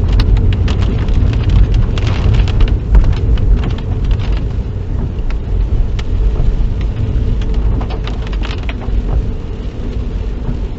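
Car driving in the rain: a steady low road and engine rumble with raindrops hitting the car as many scattered ticks, thickest in the first few seconds.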